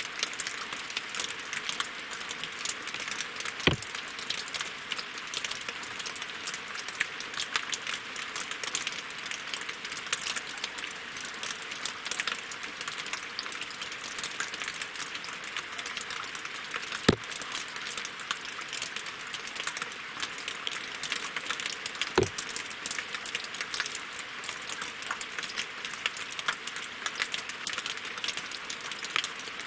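Steady winter rain falling on lake water and wooden logs: a dense, even patter of drops. Three louder single drops hit with a sharper knock, a few seconds in, past the middle and about five seconds later.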